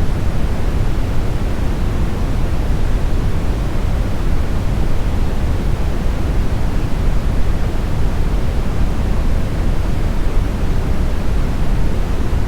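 Steady smoothed brown noise: an even, deep rushing hiss, strongest in the low end and rolling off toward the highs, without change or break.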